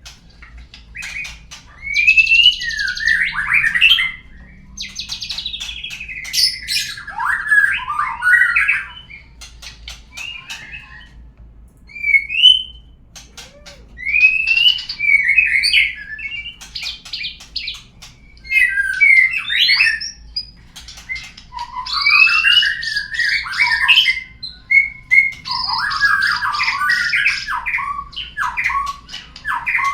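Murai (magpie-robin) song, played as a lure to set a caged bird singing: phrases of varied whistles and sliding notes mixed with harsh buzzy chattering, each a second or few long, with short pauses between them.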